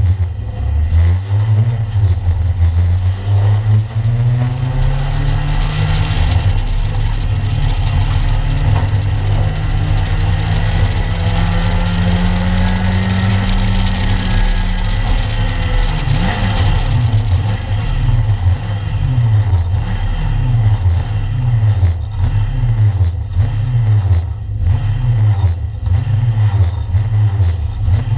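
A 1-litre stock car's engine racing, heard from inside the stripped cabin. The pitch climbs slowly for about twelve seconds and falls back about halfway through. After that the revs rise and fall about once a second.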